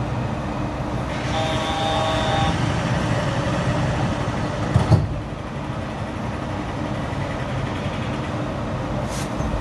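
Yurikamome rubber-tyred automated train running with a steady rumble. A brief ringing of several high steady tones comes about a second and a half in, and a sharp knock near the middle, after which the running noise is a little quieter.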